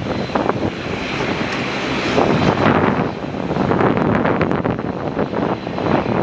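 Airliner engines running, a continuous rushing noise with a faint low hum.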